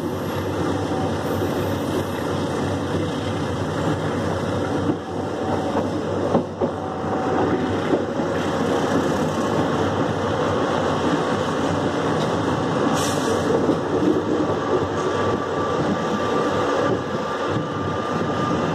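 Ranggajati passenger train running along the track, heard from inside the carriage: a steady rumble of wheels and coach noise, with a few short knocks a few seconds in.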